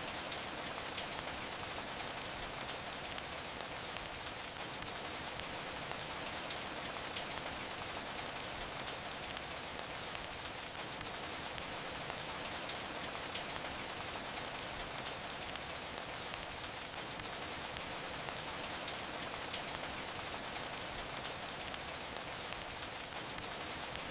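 Steady hiss of falling rain, with sharp, scattered crackles and pops from a wood fire in a fireplace; a few pops are louder than the rest.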